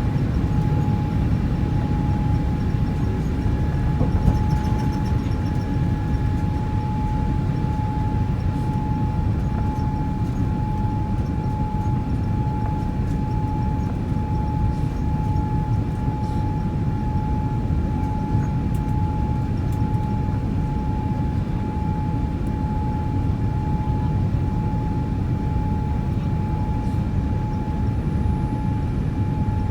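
Boeing 787-8's Rolls-Royce Trent 1000 turbofan engines heard inside the cabin during takeoff: a steady deep rumble with a steady whine above it.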